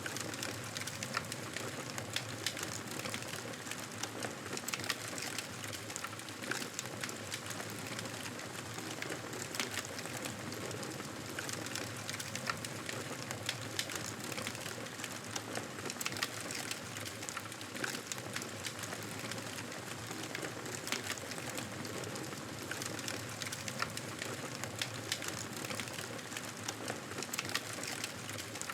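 Wood fire crackling in a fireplace: a steady hiss with many small, irregular pops and snaps.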